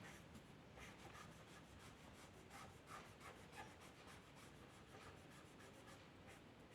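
Faint scratching of a drawing tool on paper: many quick, short strokes, several a second.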